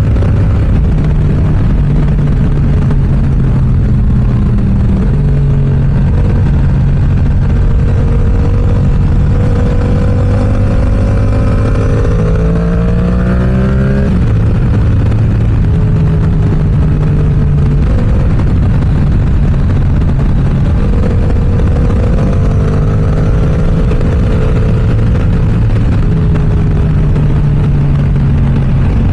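Yamaha R7's parallel-twin engine through an aftermarket M4 exhaust under riding, the revs stepping up and down as it changes gear, with a longer climb in pitch about twelve seconds in before dropping back.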